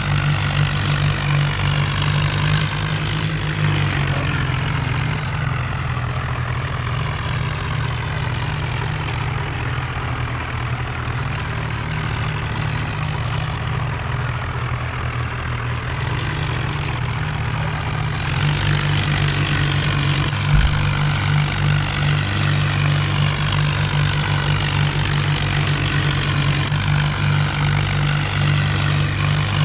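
Tractor diesel engine running steadily, getting louder about eighteen seconds in, with a brief thump a couple of seconds later.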